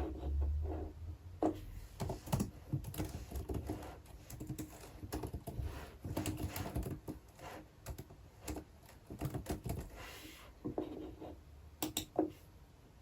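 Typing on a computer keyboard: irregular runs of key clicks with short pauses, stopping about a second before the end.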